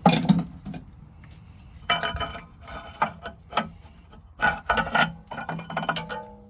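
Small loose metal engine parts handled and set down by hand: irregular clinks, clatters and scrapes, the loudest right at the start and a busy cluster of them about four and a half to six seconds in.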